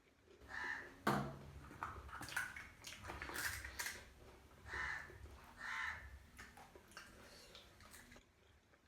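Close-up eating sounds: crisp bites and chewing, with a sharp knock about a second in and several smaller clicks and crunches after it.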